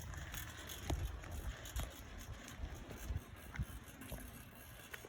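Bicycle rolling downhill: an uneven low rumble with scattered light clicks and rattles.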